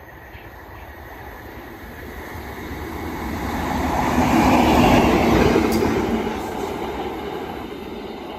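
Locomotive-hauled freight train passing through: the engine and wheels on the rails grow steadily louder as it approaches, are loudest about five seconds in as the locomotive goes by, then fade as the wagons run past.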